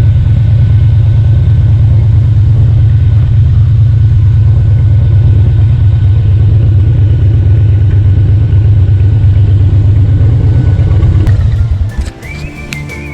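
Motorcycle engine running steadily under way, a loud, even low drone from the rider's bike. About twelve seconds in it cuts off abruptly and music with a whistled melody takes over.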